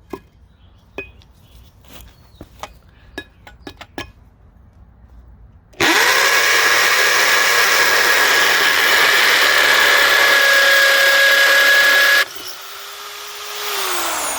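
Chicago Electric 1/2-inch corded hammer drill in hammer mode, a 1/4-inch masonry bit boring through a 2-inch cinder block: after a few light clicks and knocks, the drill starts about six seconds in and runs loud and steady for about six seconds. The trigger is then released and the motor winds down with a falling whine.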